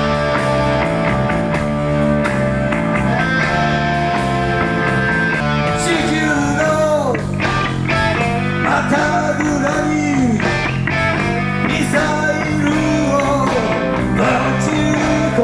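Live rock band playing an instrumental passage: a lead line of long held notes, then bending, sliding notes from about six seconds in, over bass and drums.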